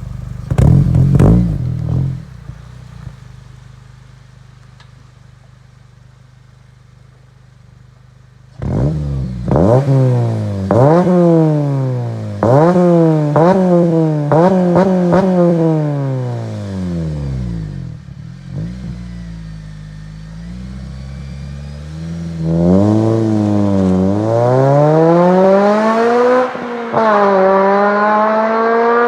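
2008 Honda Civic Si's K20Z3 four-cylinder with the muffler deleted, revving hard again and again: the pitch climbs, breaks off and climbs again, falls away, then rises once more near the end. It is loud, with a shorter loud burst at the start and a quieter steady hum before the revving.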